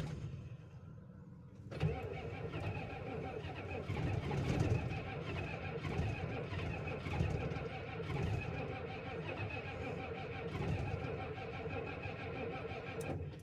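International/Navistar 7.3 IDI diesel in a 1989 Ford F350, running cold after a start at about 20°F. The engine sound comes in suddenly a little under two seconds in, holds steady, and drops away right at the end.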